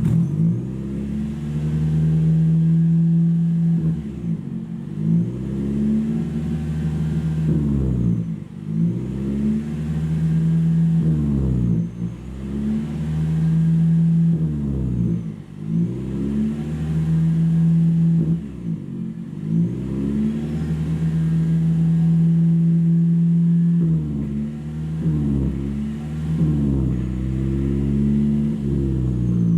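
Toyota 50-series Prius's 1.8-litre four-cylinder engine through a one-off straight-pipe rear exhaust, cutting in suddenly and held at raised revs, falling back and climbing again every few seconds. Near the end the revs rise and fall more quickly, several times in a row.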